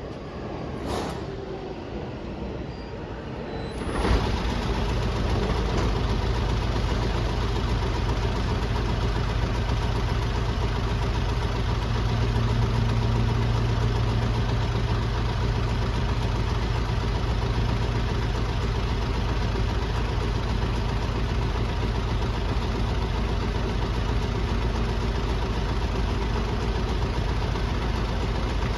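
City bus diesel engine starting about four seconds in, then idling steadily with a low, even running sound.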